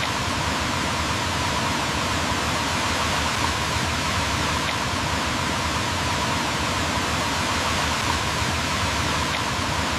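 Steady rushing water, an even unbroken flow with no other events.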